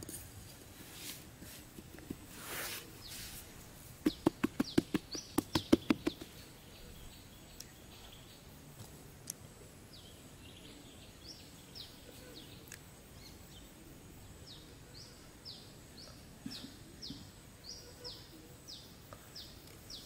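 A small bird chirps over and over in short, high, falling notes, about two a second, through the second half. Earlier comes the loudest sound: a quick run of about a dozen sharp taps, lasting about two seconds.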